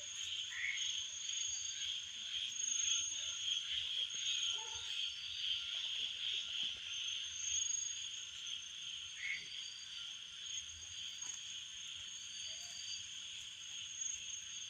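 Night chorus of insects, a steady high trilling, with a few faint frog calls here and there.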